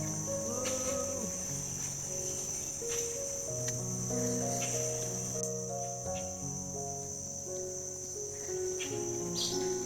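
Crickets trilling in a steady high chorus, over soft background music of slow, held notes.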